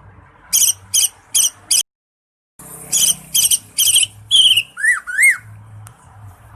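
Cucak ijo (green leafbird) singing: quick series of sharp high chirps, broken by a short dead gap about two seconds in, then more rapid chirped phrases ending in two lower down-and-up whistled notes around five seconds in.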